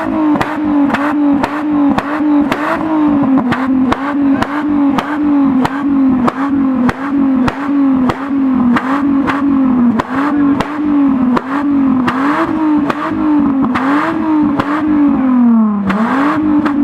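VW Vento VR6 engine revved and held high, its pitch swinging up and down about twice a second with sharp crackles. Near the end it drops briefly and climbs again.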